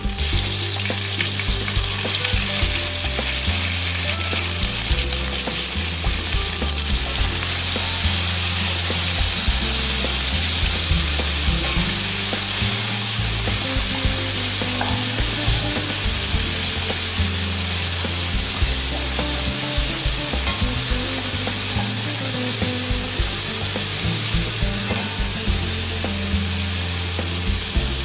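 Sliced onions sizzling as they fry in hot oil in a pot, stirred now and then with a spatula. The sizzle grows louder a few seconds in.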